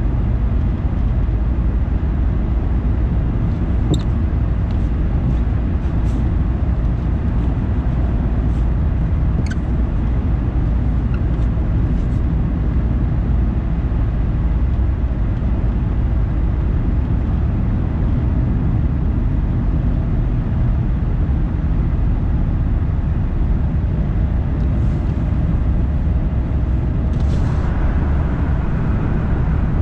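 A car driving at a steady pace: a constant low rumble of tyre and engine noise. There are a few faint scattered ticks in the first half, and a brief hiss near the end.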